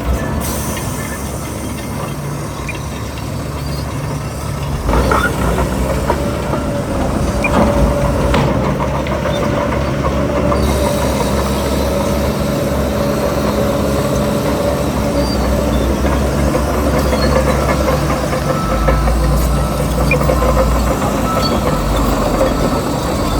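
Shantui DH17 C3 bulldozer's diesel engine running steadily under load, with the clatter of its steel tracks. There is a sharp knock about five seconds in and another a few seconds later, and a steady whine runs over the engine from then on.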